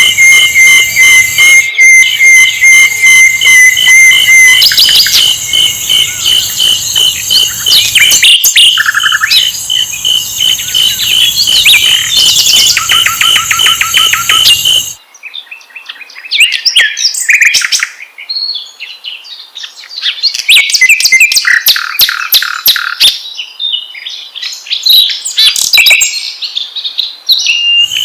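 Sikatan londo flycatcher song played loud: dense, high-pitched trills and rapid repeated chirps. About halfway through it changes abruptly to separate, varied phrases with short pauses between them.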